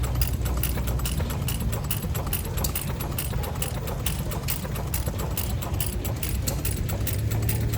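Small antique stationary engines running, a steady low hum with rapid, even clicking over it.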